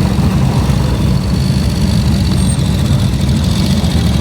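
A vehicle engine idling steadily, a loud, even low rumble.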